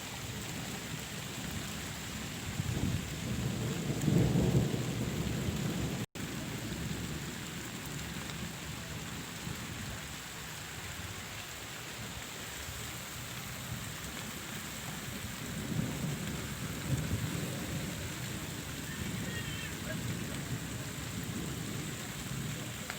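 Steady rain falling, with low rumbling swells twice, the first about three seconds in and the second around the middle-to-late part; the sound cuts out for an instant about six seconds in.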